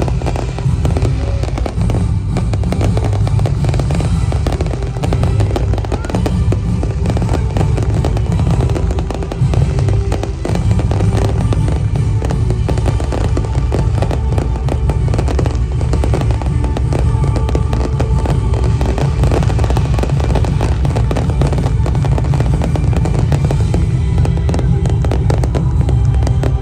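Fireworks crackling and banging in a rapid, continuous barrage, with loud music playing at the same time.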